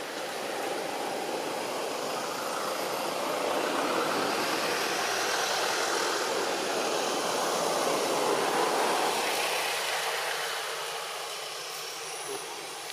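A motor vehicle passing by: engine and road noise that grow louder, peak in the middle, then fade away.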